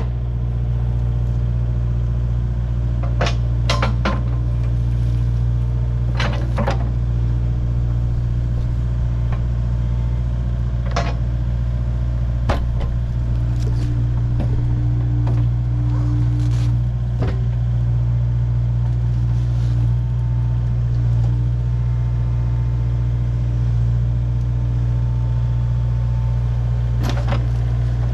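Kubota U55 mini excavator's diesel engine running steadily, with a handful of short metallic clanks as the bucket and newly fitted hydraulic thumb are worked.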